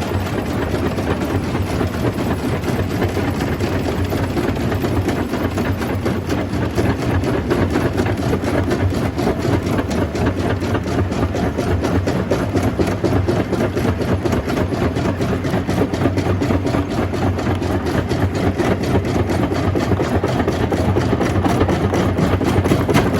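Jaw crusher running steadily: a constant heavy mechanical drone with a fast, even rattle running through it, loudest in the low end.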